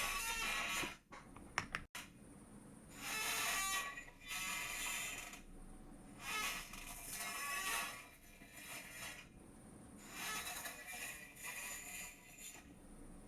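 Chair creaking and squeaking in a series of irregular bursts about a second long, with a few sharp clicks about two seconds in.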